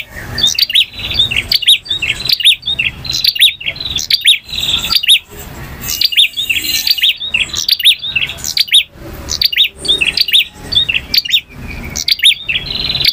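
Male prinia (prenjak) singing: fast runs of sharp, high chirps in bursts about a second long, repeated with brief gaps between them.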